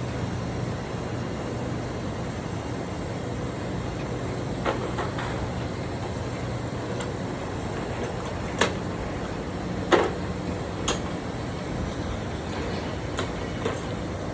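A steady low mechanical hum with occasional sharp metallic clicks and knocks, about four or five, the loudest about two-thirds of the way in.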